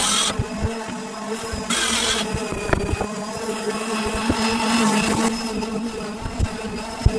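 An engine running steadily, with two short bursts of hiss, one at the start and one about two seconds in, and scattered low knocks.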